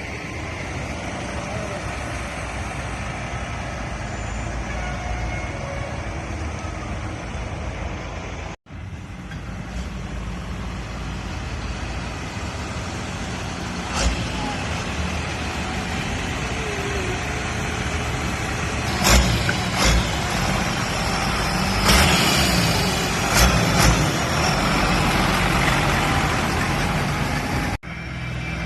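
Tractor engines running in a steady mix of vehicle noise that grows louder in the second half, with several sharp bangs over the latter half. The sound cuts out abruptly twice.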